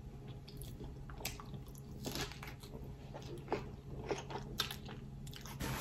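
Close-up chewing of a mouthful of lettuce-wrapped cheeseburger: soft, irregular crunches of crisp lettuce and wet mouth clicks.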